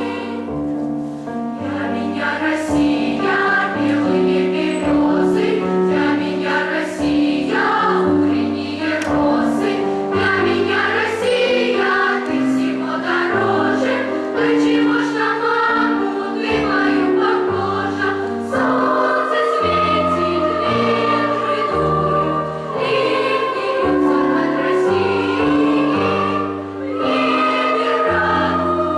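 A choir singing a song in held, changing chords.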